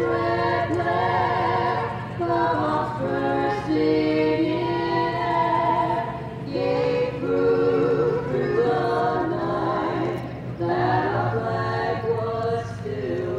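A group of voices singing together in held, wavering notes, with short breaks between phrases, over a steady low hum.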